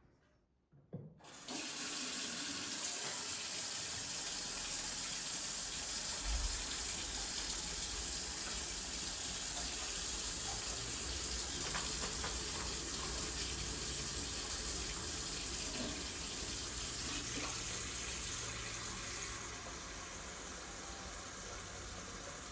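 Water tap running into a sink, turned on about a second in as a steady rush. Near the end the flow drops to a lower, quieter stream.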